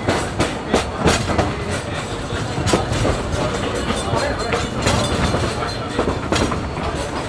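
Passenger coach rolling along behind a steam locomotive: a steady low rumble of the car, broken by irregular sharp clacks of the wheels on the track.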